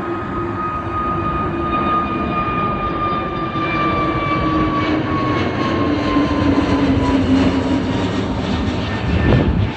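An airliner's engines passing, a steady rush of engine noise with a whine that glides slowly down in pitch. A surge of low rumble swells near the end, and the sound then drops suddenly.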